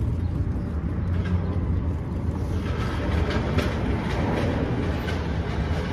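Harley-Davidson Road Glide's V-twin engine idling with a steady low hum, with a rapid mechanical clatter growing louder about two and a half seconds in.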